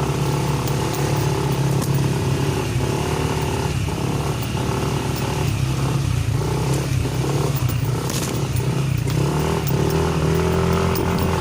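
Motorcycle engine running steadily under load while climbing a steep, rough track, with occasional clatter from the bumpy ride.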